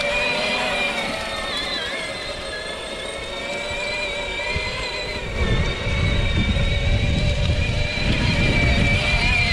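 Battery-powered ride-on kid tractor running, its electric drive motors and gearboxes giving a steady whine. About halfway through a louder low rumble joins it.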